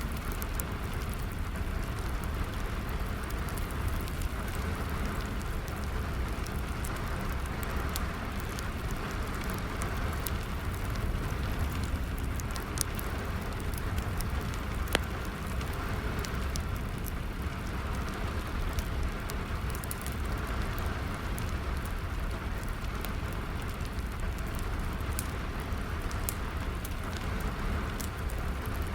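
Steady rain with a wood fire crackling, frequent small pops and a couple of sharper, louder snaps.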